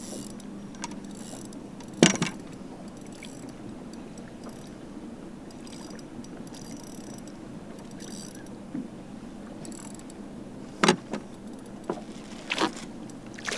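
Bass boat under way at low speed: a steady low hum with faint rattling, and a few sharp knocks on the boat about 2 seconds in and again near the end.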